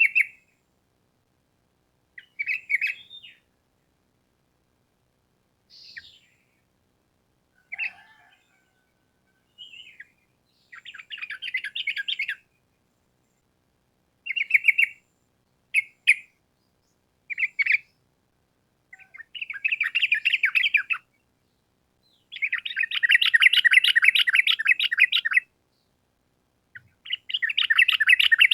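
Yellow-vented bulbul (trucukan) singing in separate phrases: short bubbly chirps in the first half, then long rapid trilled runs (ropel) of two to three seconds each in the second half.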